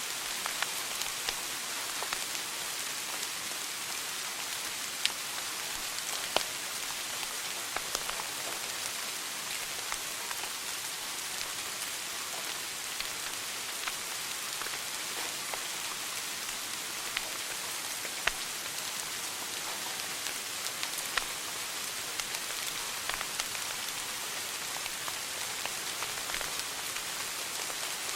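Wood fire burning in a fireplace: a steady crackling hiss with scattered sharp pops, a few louder snaps standing out.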